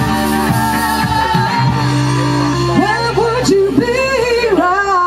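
Live band music with singing: sustained instrumental chords, and in the second half a singer's line sliding up and down over them.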